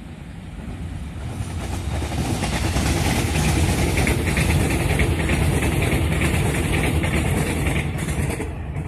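Electric multiple-unit trains passing at speed: the rumble and wheel-on-rail noise build over the first couple of seconds, hold with a rapid clatter, then fade near the end.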